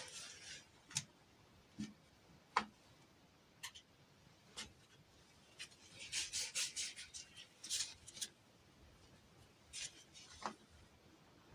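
Hands handling small plastic toys and packaging: scattered light clicks and taps, with short bursts of rustling and scraping, a quick run of them about six to seven seconds in.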